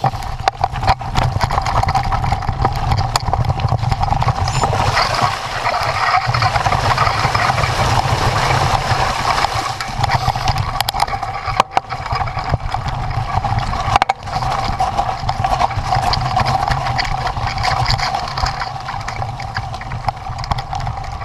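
A motor running steadily under a loud rushing noise, with a deep rumble and a constant mid-pitched hum.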